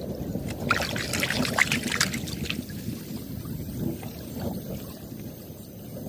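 River water sloshing and splashing against a bamboo raft, with a few short, crisp splashes in the first half over a steady low rumble.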